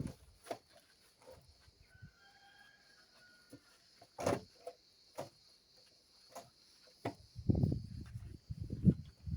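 Cleaning a model airplane's plastic body by hand: scattered knocks and clicks as it is handled, then a louder spell of rubbing and scrubbing near the end.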